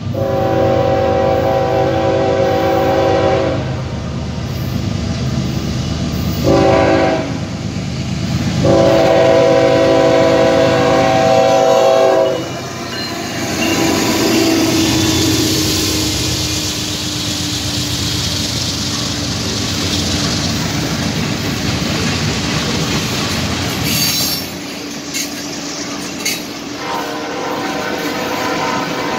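Norfolk Southern diesel locomotive's air horn blowing for a grade crossing: a long blast, a short one and another long one. The locomotive then passes and its train of loaded flatcars rolls by, wheels clattering over the rail joints.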